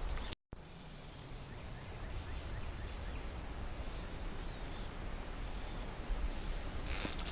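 Outdoor ambience: a steady hiss with a thin, steady high-pitched whine over it, and four or five faint short chirps about a second apart in the middle. The sound drops out completely for a moment near the start.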